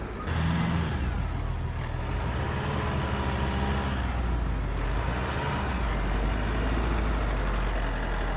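A motor vehicle's engine running steadily with a low rumble, its pitch shifting a little partway through.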